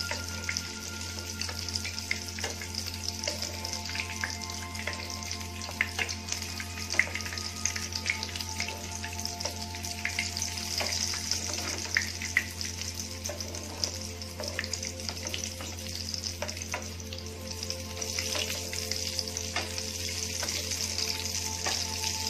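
Chickpea cutlets shallow-frying in hot oil in a pan: a steady sizzle full of small crackles, with a few sharper pops.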